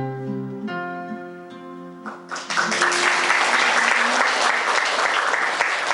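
The closing notes of a live ocarina piece with sustained pitched tones. The music stops about two seconds in and the audience breaks into steady applause.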